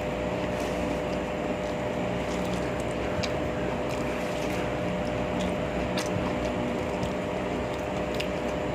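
A steady mechanical hum over a noisy roar, with a few faint scattered ticks.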